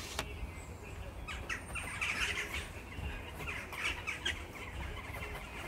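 Birds chirping in quick, repeated short calls over a steady low rumble.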